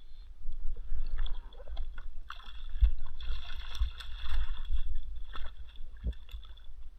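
Water splashing and sloshing around a fishing kayak, over a continuous low rumble, with a few sharp knocks, the clearest about six seconds in.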